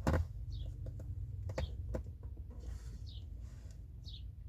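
Light clicks and knocks of a metal fitting and tools being handled over a steady low hum, with a short high chirp falling in pitch three times.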